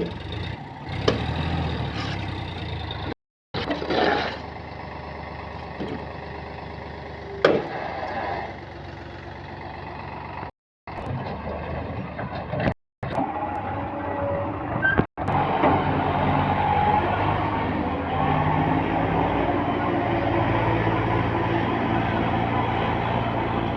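Diesel tractor engines running at an earth-loading site, with scattered knocks in the first half. Cut several times by abrupt silent gaps, the sound then settles into a steady, louder engine note for the second half.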